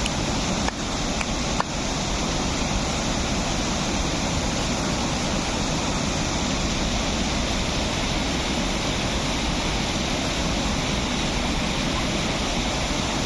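Steady rush of flowing water, such as a waterfall or fast stream, even and unbroken, with two faint clicks about a second in.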